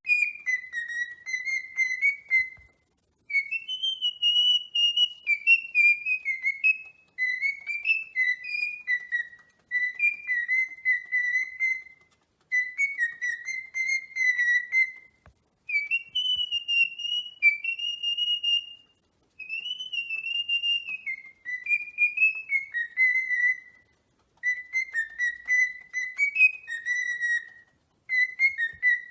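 A parrot whistling a tune: clear notes that step up and down, in phrases of a few seconds with short silent breaks between them.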